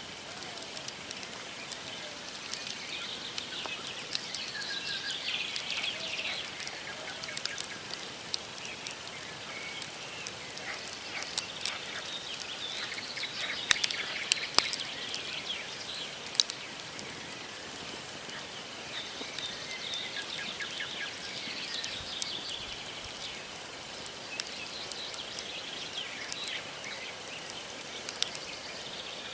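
Wood campfire crackling, with scattered sharp pops from the burning logs, the loudest in the middle stretch, while small birds chirp now and then.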